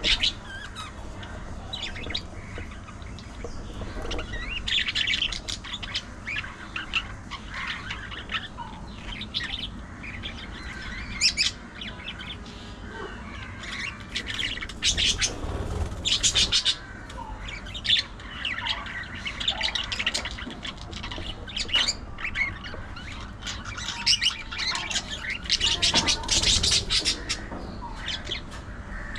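Budgerigars chattering, with a stream of short chirps and harsh squawks that come in louder clusters several times.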